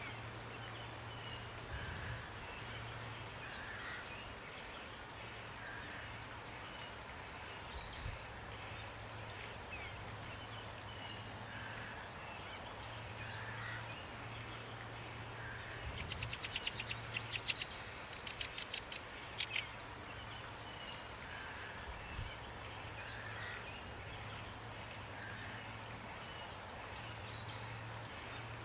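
Several songbirds chirping with many short, high, falling calls over a steady even hiss of rain. A rapid rattling trill rings out a little past the middle, and a low steady hum runs underneath.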